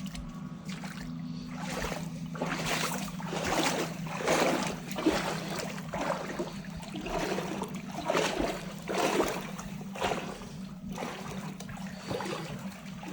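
A hiker's footsteps through snow, a steady walking rhythm of roughly one to two steps a second.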